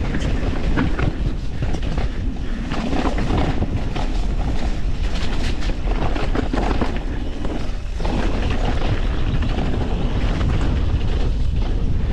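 YT Industries Capra 4 mountain bike descending a rough, wet trail: tyres rolling over dirt and rock, with constant knocks and rattles from the bike and wind buffeting the camera microphone.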